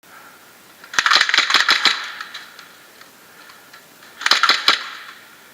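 Airsoft gun firing on full auto: a rapid burst of sharp clacks lasting about a second, then a shorter burst about three seconds later.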